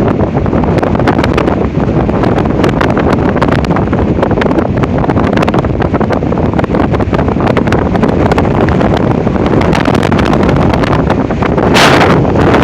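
Loud, gusting high wind, 40-50 mph gusting to about 60 mph, buffeting the microphone with rumble and crackle, and a stronger blast near the end.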